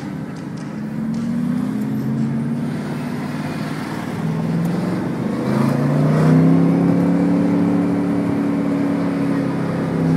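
Mercedes-McLaren SLR's supercharged V8 heard from inside the cabin, pulling away through light traffic. The engine note rises sharply about halfway through, holds high for a few seconds, then eases slightly near the end.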